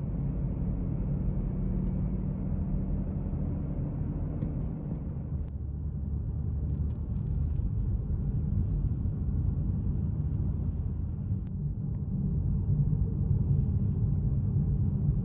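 A car on the move: a steady low rumble of engine and road noise, a little louder near the end.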